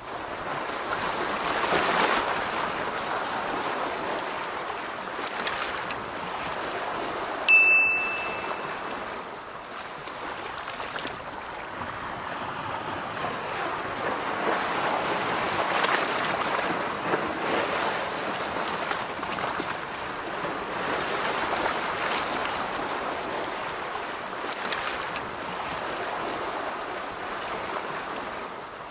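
Ocean waves washing on a beach, a steady rush that swells and eases every few seconds. About a third of the way in comes one brief high ringing tone that fades within a second.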